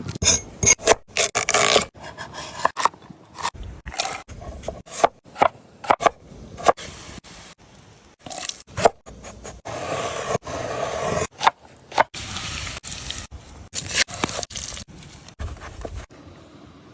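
Irregular scraping and crunching with many sharp knocks and clicks, and a couple of longer scrapes in the second half.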